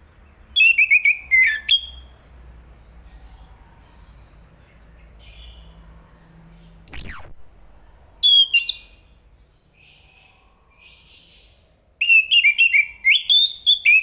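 Chestnut-capped thrush singing: three bursts of rapid, jumping song phrases, near the start, just after the middle and over the last two seconds, with softer calls between them. About halfway through there is one sharp whistle that falls steeply in pitch.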